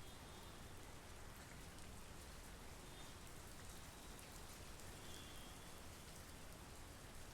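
Steady monsoon rain, faint and even, with a couple of brief high chirps in the middle.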